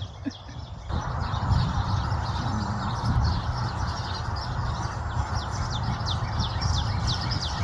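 Small birds chirping: a rapid, continuing series of short, high, falling chirps begins about a second in, over steady background noise.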